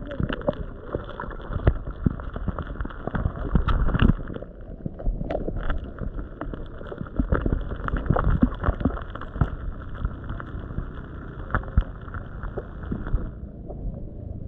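Shallow canal water splashing and plopping irregularly with many small knocks, as a dense shoal of carp fingerlings churns the surface. A steady hiss runs underneath and cuts off near the end.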